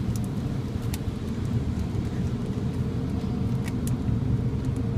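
Automatic car wash running, heard from inside the car: a steady low rumble with a faint even hum and a few light ticks.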